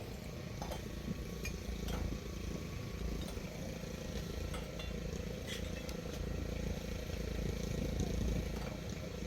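An engine running steadily, with a scatter of light clicks over it.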